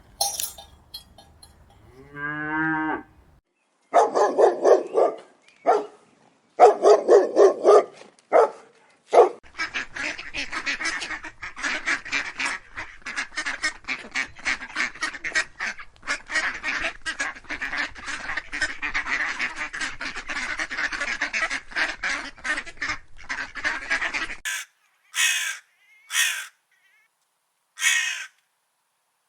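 A run of animal calls: a short rising call, then a few loud, separate calls, then a flock calling densely for about fifteen seconds, then four short calls near the end.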